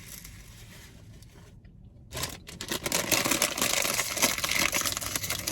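Crinkly food packaging being handled, starting about two seconds in as a loud, dense crackle that runs on, after a faint steady background hum.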